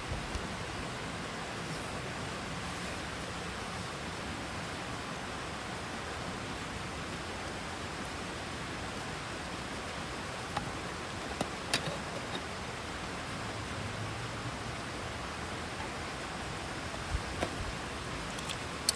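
Steady rushing water noise, with a few short sharp clicks about two-thirds of the way through and near the end.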